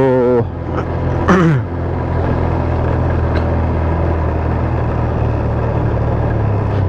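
Motorcycle engine running steadily, with a low even hum. Two short vocal sounds come in the first second and a half.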